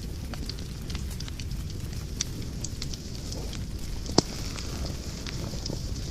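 Wood fire burning in a fireplace: a steady low rumble of flames with frequent irregular crackles and small pops, and one sharp, louder pop about four seconds in.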